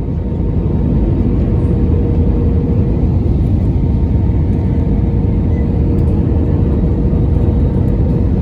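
Steady cabin noise inside an Airbus A321 airliner on descent: a low rumble of engines and airflow, with a faint steady hum above it.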